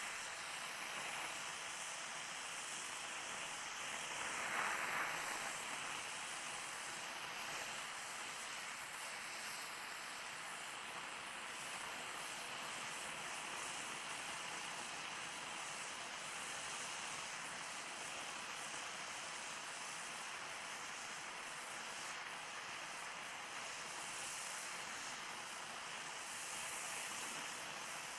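Oxyacetylene welding torch flame hissing steadily while beads are run on steel, with a brief louder surge about five seconds in.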